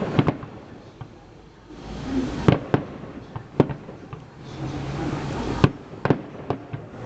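Fireworks going off: a series of sharp bangs, a few seconds apart, over a rumbling background.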